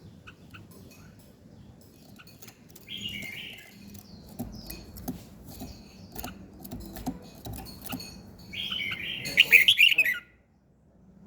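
Songbird chirping and singing: a short burst of chirps about three seconds in and a louder run of quick notes near the end, over a faint steady hum.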